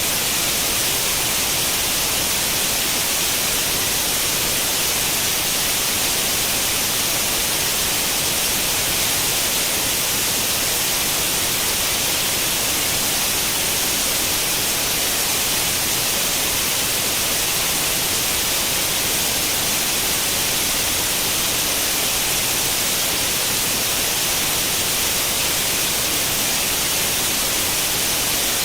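White noise like the static of an old tube television tuned to no channel: a steady, even hiss, strongest in the high frequencies.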